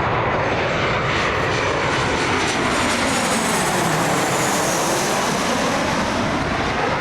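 Jet airliner passing low overhead, its engines loud and steady, with a sweeping, phasing hiss in the middle as it goes over.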